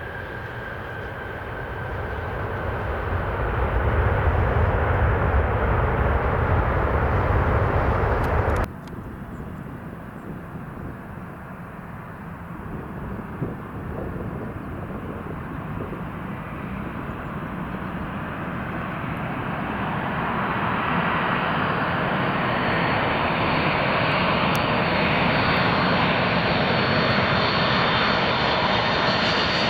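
Boeing 747 jet engines on landing approach. A deep rumble cuts off suddenly about nine seconds in. Then another 747's engines grow steadily louder, with a thin whine rising in pitch as the jet comes closer.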